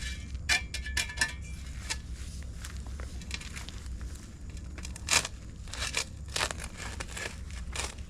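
Irregular scrapes and crunches of digging by hand through weedy soil around buried patio stones, over a steady low hum.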